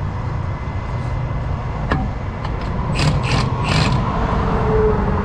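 A hand wrench and socket clicking and rasping on the driveshaft bolts as they are worked loose, with a sharp click about two seconds in and several quick ratcheting rasps a second later. A steady low engine rumble runs underneath.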